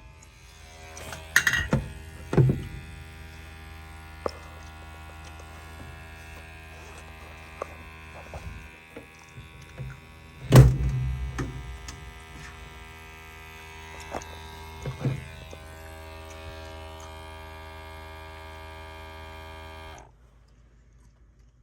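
Gas furnace fan motor running with a steady electrical hum, jumped on by hand, cutting off abruptly near the end. Several clunks of handling the furnace cabinet, the loudest about halfway through.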